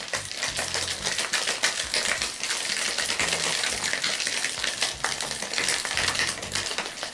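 Ice rattling hard in a cocktail shaker, shaken continuously: a dense, rapid clatter.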